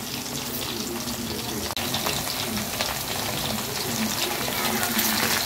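Cornflour-and-maida-coated chicken pieces deep-frying in hot oil in a kadai: a steady, dense crackling sizzle.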